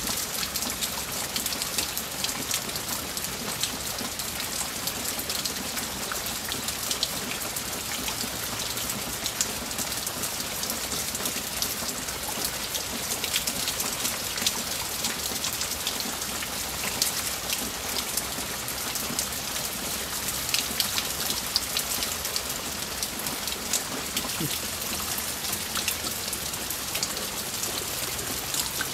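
Steady rain falling on standing floodwater and wet ground, with many individual drops ticking close by throughout.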